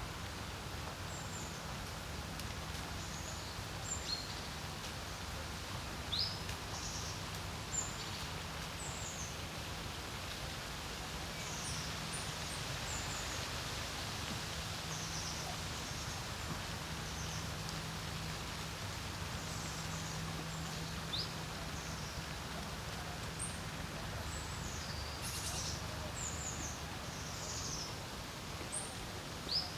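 Steady wind over a lake, with many short high bird chirps scattered throughout.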